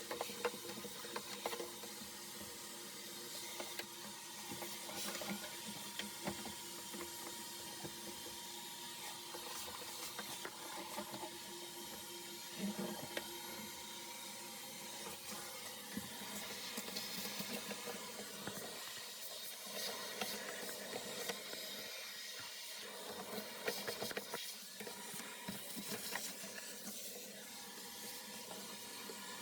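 Faint scattered clicks and light handling noises over a low steady hiss.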